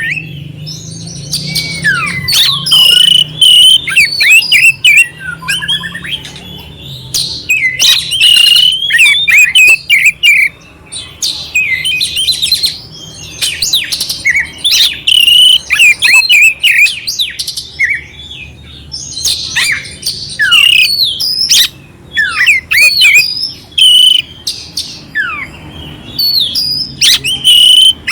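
Oriental magpie-robin (kacer) singing a fast, varied song of clear whistled notes and sweeps mixed with rough, harsh notes, in quick phrases broken by short pauses.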